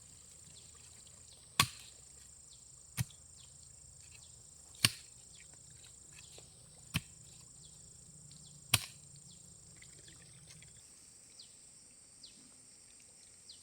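A hand tool chopping into ground or vegetation: five sharp strikes, one every two seconds or so, over a steady high drone of insects.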